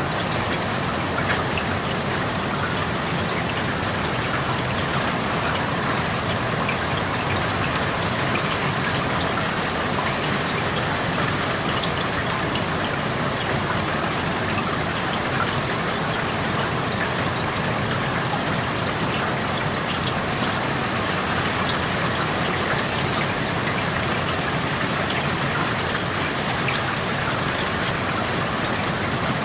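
Steady rain falling, with the patter of individual drops on surfaces close by, heard through an open window.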